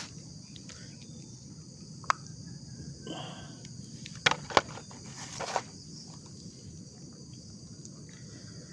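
Steady, high-pitched chirring of insects, with a few sharp clicks and knocks and short rustles from muddy plastic toys being handled.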